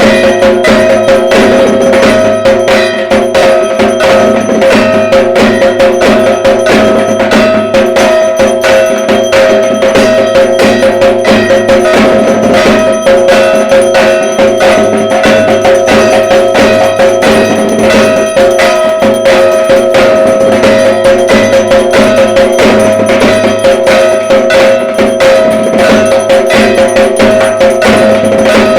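Dhak, the Bengali barrel drum played for Durga Puja, beaten in fast, continuous strokes without a break, over a steady metallic ringing.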